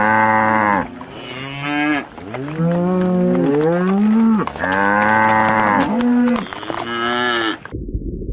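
Cattle mooing: a run of about six long, low calls, some overlapping and one sliding upward in pitch. They cut off suddenly near the end, leaving a low rumble.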